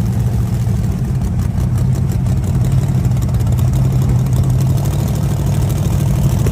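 Drag car's engine idling steadily and loudly, with no revving.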